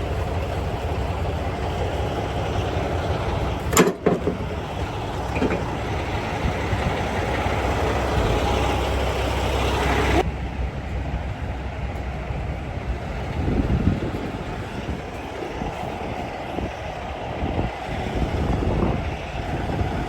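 A heavy vehicle engine running steadily, with one sharp clank about four seconds in. About ten seconds in the sound changes suddenly and scattered knocks and clatter follow.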